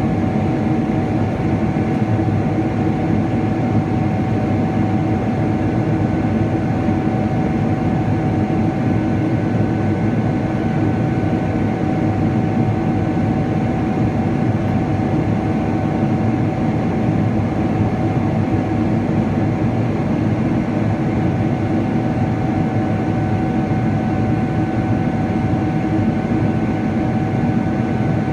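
Steady cabin noise inside a Boeing 777-300ER in flight: the drone of its GE90 engines and the rush of air past the fuselage, with a steady whine running through it.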